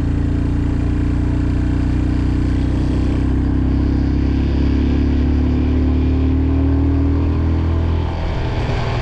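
Motorcycle engine running steadily while riding, its pitch rising slowly over several seconds, then changing and dropping about eight seconds in.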